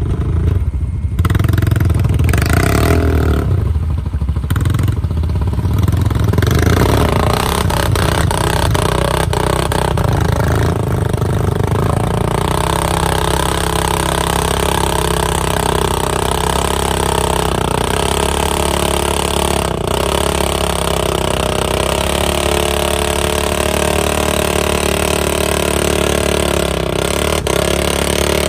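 Polaris RZR side-by-side engine running under way, its pitch rising and falling over the first six seconds, then holding steady.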